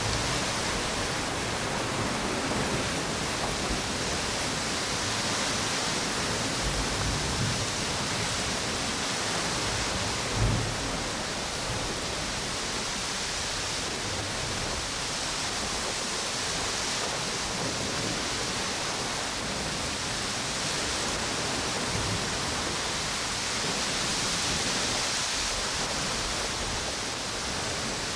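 Steady rush of wind and ocean waves on a beach, swelling slowly and easing off, with a brief low thump about ten seconds in.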